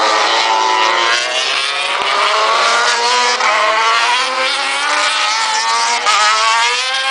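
800cc four-stroke MotoGP race bikes running at speed, several engines overlapping, their pitch rising and falling as they rev and shift gears.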